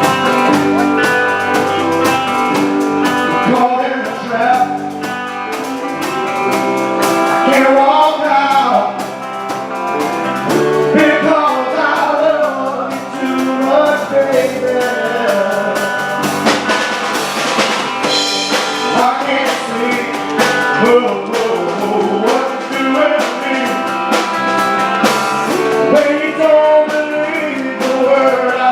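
A live band playing a rock and roll number, with a singer over guitar and drums.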